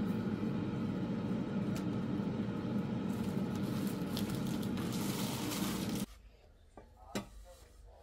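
A steady machine hum with a hiss that grows stronger, cutting off suddenly about six seconds in; a single click follows in the quiet.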